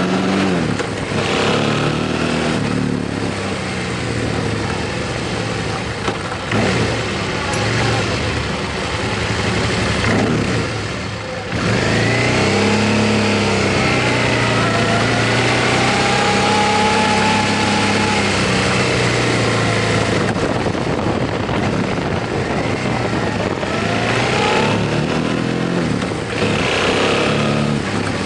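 Motorcycle engine running under way with heavy wind rush over the microphone, its revs rising and falling as it accelerates and eases off.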